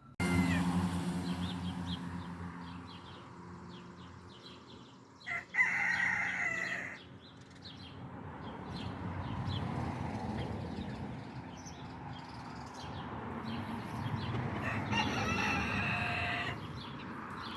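Backyard chickens clucking and calling, with two long crows, one about six seconds in and one near the end.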